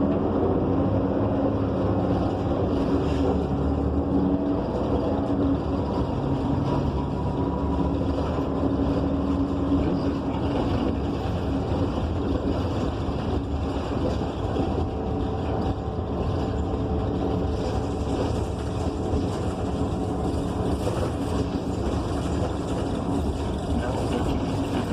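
Cabin of a 2015 Gillig BRT Plus transit bus under way: the steady drone of its Cummins Westport ISL G natural-gas engine and Allison B300R automatic transmission, with humming tones over road rumble.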